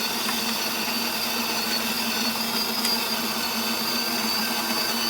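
Built-in burr grinder of a DeLonghi La Specialista espresso machine running automatically, grinding coffee beans into the portafilter with a steady motor hum and high whine.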